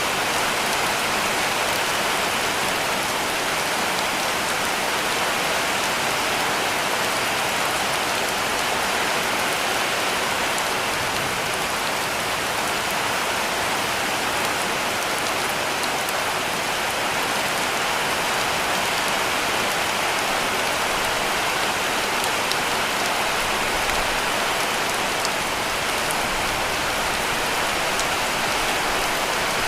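Heavy rain falling steadily on a roof: a dense, even hiss with a few sharper drop ticks here and there.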